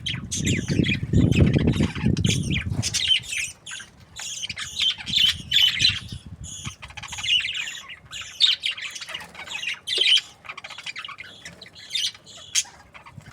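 A group of budgerigars chattering and squawking, many short high-pitched calls overlapping, with a low rumble under them for the first few seconds.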